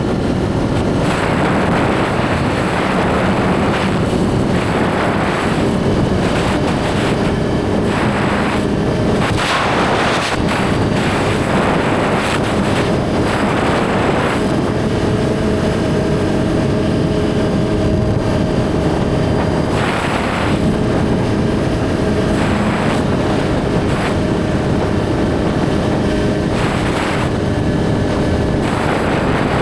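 Suzuki GSX-R1000's inline-four engine running steadily as the bike is ridden, heard from the rider's camera. The engine note holds even and shifts slightly in pitch about halfway through, with swells of rushing noise now and then.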